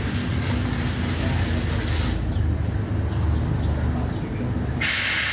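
A car-wash pressure washer runs with a steady low hum. Its spray hisses, cuts out about two seconds in, then starts again suddenly and loudly near the end.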